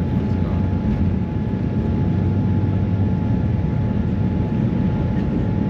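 Jet airliner cabin noise inside a Boeing 787-9: a loud, steady rumble of the engines and airflow with a thin constant whine over it.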